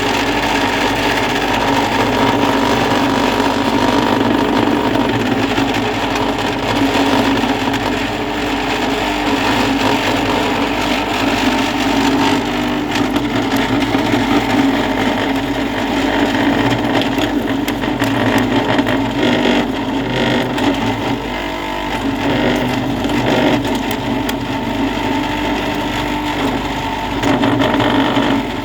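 A motor-driven machine running steadily at a constant pitch, with a steady hum and a rattling whir over it.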